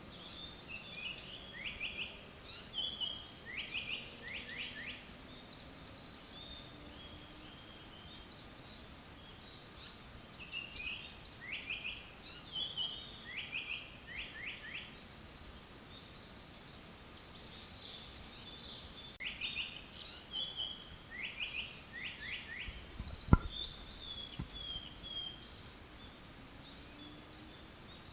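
Japanese paradise flycatcher singing in three bouts, each a few high thin notes followed by quick runs of three downward-sweeping whistles. One sharp click near the end of the last bout, over a steady background hiss.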